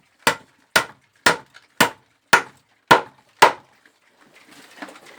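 Hammer driving a nail into wooden boards: seven sharp, evenly spaced blows, about two a second, that stop about three and a half seconds in.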